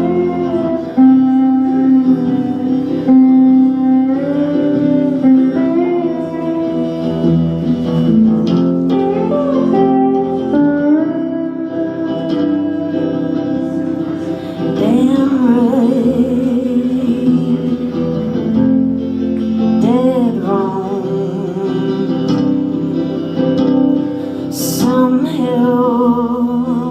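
Live band playing a song: guitar with a sung vocal line over it, continuous and loud.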